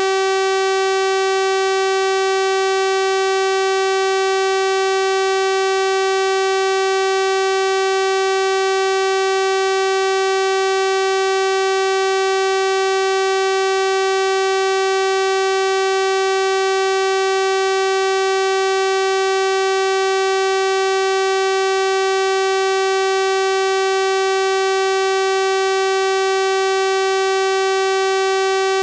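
Synthesized 384 Hz sawtooth-wave tone held at a constant pitch and level, a buzzy steady tone rich in overtones.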